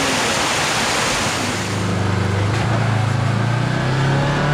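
Rushing waterfall, then, about a second and a half in, a side-by-side's engine comes in, running steadily and rising slightly in pitch near the end.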